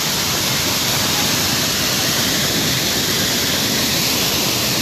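Waterfall crashing into its pool, a steady loud rush of falling water.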